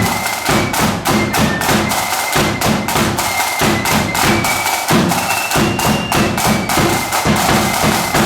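Marching band playing at full volume: fast, dense snare-drum strokes and bass-drum beats under a high, thin melody line.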